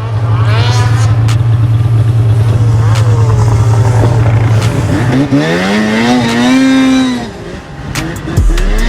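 Turbocharged Polaris 850 Boost snowmobile's two-stroke engine running at a steady speed, then revving up for about two seconds and dropping back. Near the end the sound cuts to a different low steady drone.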